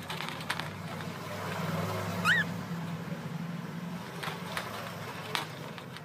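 A single short, rising bird chirp about two seconds in, over a steady low hum and a few faint clicks.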